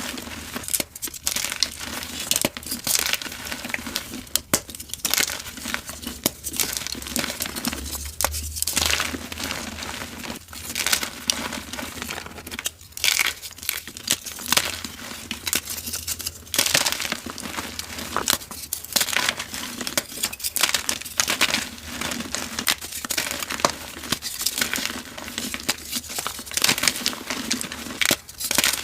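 Dyed gym chalk being crumbled and crushed: a continuous run of dry, irregular crunches and crackles.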